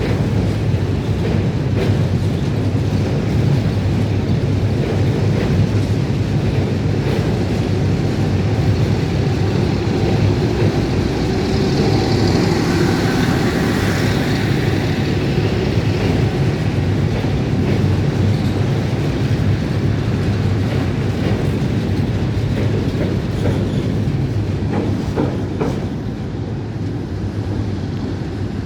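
Train rolling across a steel railway bridge: a steady, loud rumble of wheels on rails with clacking over the rail joints, easing slightly near the end.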